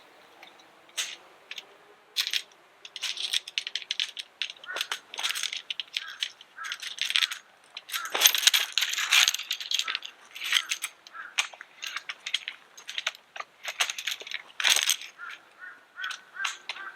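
Irregular clinks, clicks and rattles of small hard objects being handled, thickest about eight seconds in.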